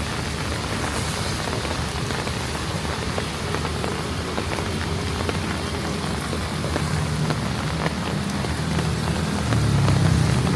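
Heavy rain falling steadily on hard surfaces. A vehicle's engine hum comes in under it and grows louder over the last few seconds.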